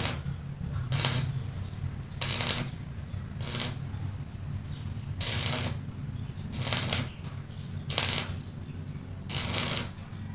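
Eight short bursts of electric arc-welding crackle, about one every second or so, laid on a motorcycle rim being repaired. Under them runs a steady electrical hum from the welding machine.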